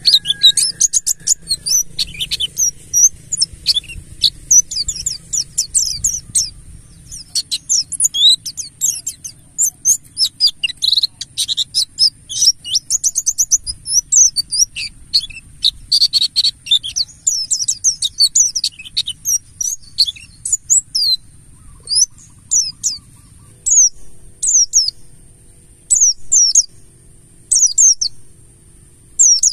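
Pleci buxtoni white-eyes singing: a fast, dense twittering of high chirps and short glides. About two-thirds of the way through it thins out to separate short calls roughly once a second.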